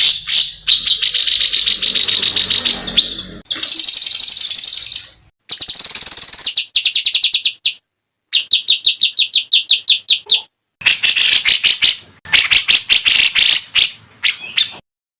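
Caged songbird song from a masteran tutor recording, with clear phrases mixed with harsh rapid-fire 'tembakan' bursts. It runs as fast, high trills and chattering strings of quick notes, broken by several short pauses, and stops suddenly near the end.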